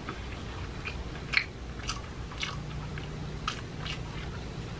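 Close-up mouth sounds of a person chewing food, with about half a dozen short sharp wet clicks and smacks spaced irregularly through the chewing.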